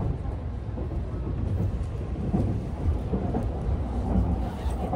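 Low rumble of a sleeper train running on the rails, heard from inside the car, with scattered light knocks and clatter.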